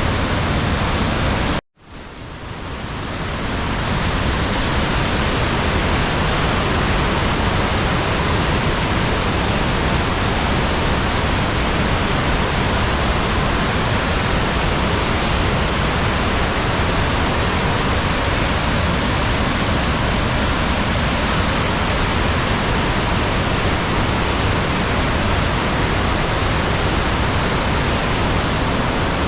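Steady loud roar of the Rhine Falls, a large river waterfall, heard close up. It cuts out for a moment just under two seconds in and swells back over the next two seconds.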